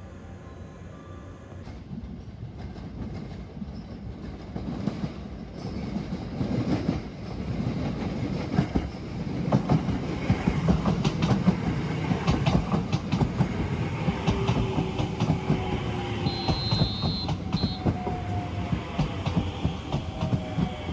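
Sunrise Izumo sleeper train, a 285-series electric multiple unit, pulling into the platform. Its rumble builds as it nears, with the wheels clacking over the rail joints. From about two-thirds through, a whine falls in pitch as it brakes, and a brief high squeal sounds near the end.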